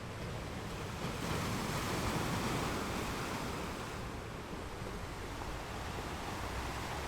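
Sea waves breaking on rocks, a steady wash of surf with a low rumble. One wave swells about a second in and ebbs away a few seconds later.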